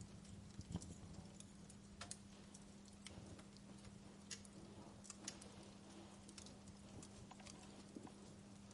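Wood fire crackling low and sparse in a fireplace: irregular small snaps and pops, a few a second, over a faint hiss, with a steady low hum underneath.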